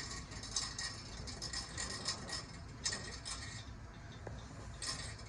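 Cardboard being handled, with irregular rustling and scraping that comes in quick bursts for the first three seconds or so, then briefly again near the end.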